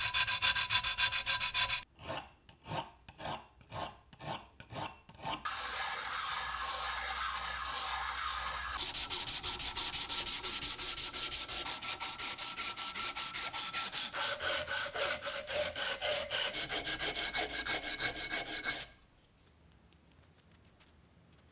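Hand abrasion of a lamp part: back-and-forth rubbing strokes like sanding or filing. For a few seconds near the start the strokes come slower and separate, two or three a second, then they run fast and steady before stopping abruptly near the end.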